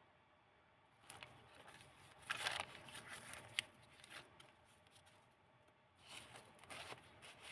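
Paper pages of a handmade junk-journal book made from old book pages being handled and turned: soft rustles, a louder bout about two seconds in with a sharp tick, and another rustle about six seconds in.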